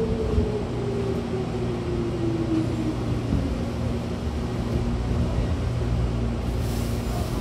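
Hankyu electric commuter train heard from inside the car: a steady rumble of wheels on rail, with the traction motor whine falling steadily in pitch over the first few seconds as the train slows. A brief hiss comes near the end.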